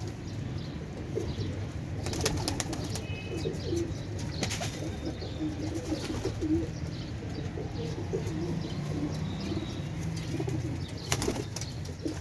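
Pigeons cooing over and over, with a few sharp bursts of wing flapping: about two seconds in, about four and a half seconds in, and near the end.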